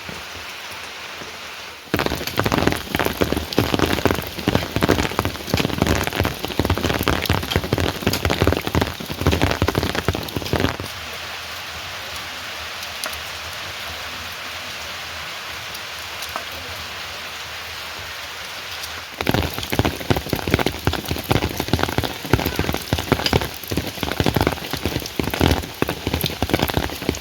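Heavy rain: a dense, loud spatter of drops hitting a nearby surface, easing to a softer steady hiss of rain for several seconds in the middle before the heavy spatter returns.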